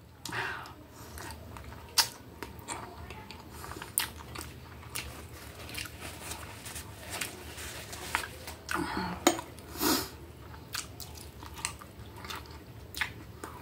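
Close-up eating sounds: a person chewing mouthfuls of spaghetti and hamburger patty, with sharp clicks and smacks now and then.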